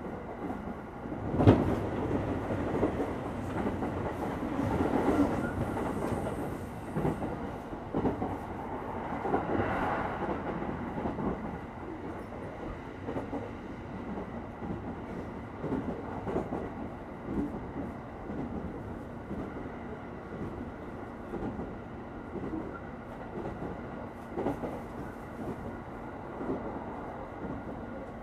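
Inside a Japanese electric commuter train: the doors shut with a sharp bang about a second and a half in, then the train pulls away from the station. Running noise swells over the next several seconds and settles into steady rolling, with regular clicks of the wheels passing over rail joints.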